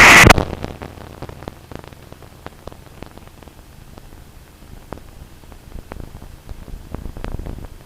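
A radio transmission cuts off about a quarter of a second in, leaving a quiet aircraft radio and intercom feed with faint crackling clicks and a weak low hum.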